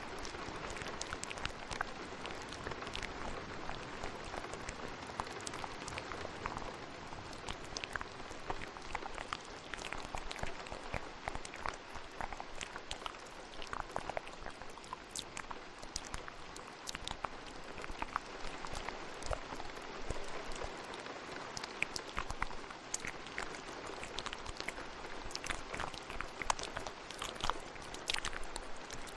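Steady rain with many small, sharp clicks scattered irregularly through it: ASMR mouth sounds layered over a rainstorm recording.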